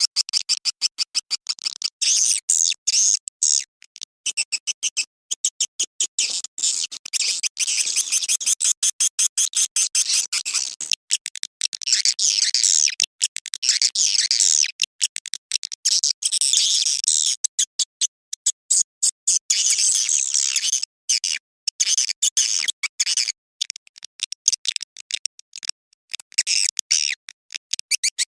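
Edible-nest swiftlets twittering in dense, high chirps, broken by rapid clicking pulses with short gaps between them. It is a swiftlet mating call of the kind played to lure the birds into a swiftlet house.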